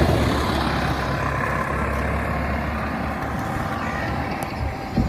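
Motor vehicle engine running with road noise, a steady low rumble, with a short knock near the end.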